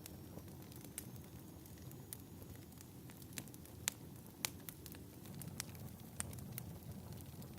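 Wood fire crackling, with a steady low rumble and irregular sharp pops, two of them louder a little past the middle.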